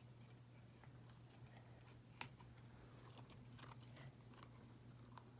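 Near silence with faint scattered clicks and crackles of glitter slime and its plastic container being handled, one sharper click about two seconds in.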